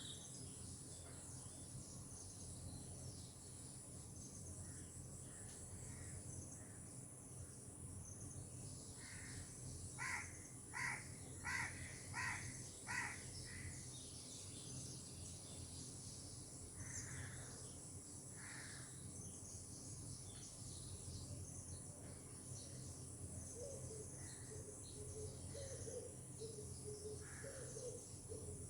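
Tropical bird and insect ambience: a steady high insect buzz under scattered short bird calls. About a third of the way in, a crow gives a run of six harsh caws, the loudest sound. Near the end, a bird starts a low series of cooing notes.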